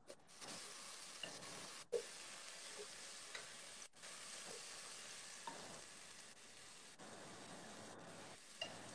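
Kimchi and meat frying in oil in a pot while being stirred: a faint, steady sizzle with a few light scrapes of the spatula against the pot.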